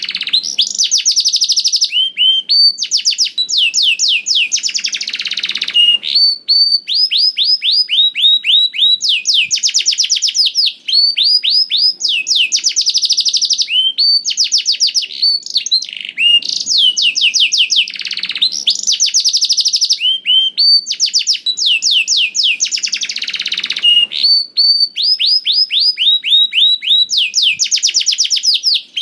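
Domestic canary singing a long, loud, unbroken song: fast trills of rapidly repeated notes, many of them falling sweeps, switching to a new trill every second or two, with short clear whistled notes between.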